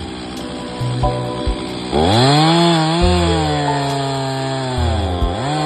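Background music, then about two seconds in a chainsaw revs up sharply and runs at high speed, its pitch sagging and recovering as it cuts through the stump, working hard.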